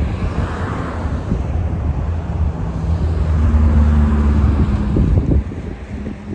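A transit bus driving past with its engine running. The hum builds to its loudest between about three and five seconds in, then drops off sharply after about five seconds, with wind on the microphone.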